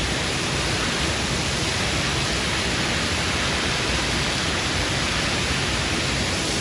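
Steady, unbroken rushing noise with no clear events in it.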